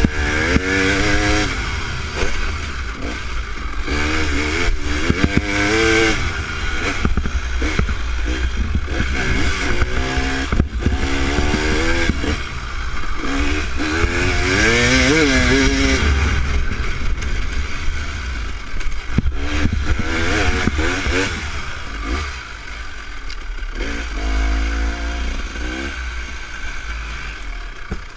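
Dirt bike engine revving up and falling back again and again as the bike is ridden along the trail, its pitch rising and dropping every few seconds over a steady low rumble.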